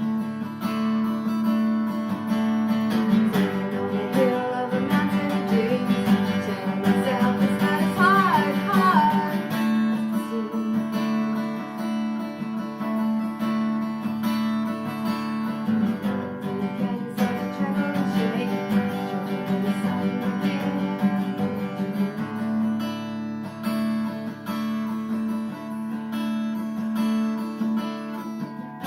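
Acoustic guitar strummed steadily in a live song, with some singing, most clearly in the first third.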